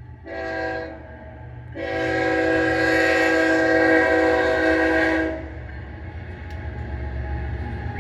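Locomotive air horn sounding a short blast and then a long blast of about three and a half seconds, over the steady low rumble of a passing train.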